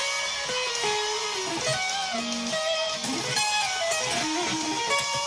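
Electric guitar playing a melodic riff of quickly changing single notes.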